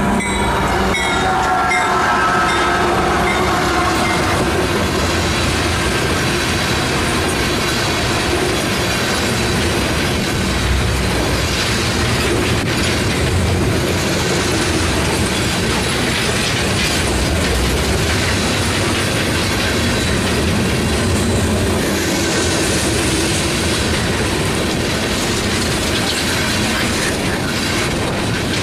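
Freight train passing at close range: a locomotive horn tails off with a falling pitch in the first few seconds as the lead diesel locomotives go by. It is followed by a long string of railroad tank cars rolling past with a steady wheel rumble and clickety-clack.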